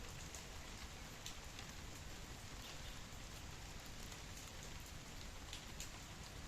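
Steady rainfall, an even hiss with scattered individual drops ticking on surfaces.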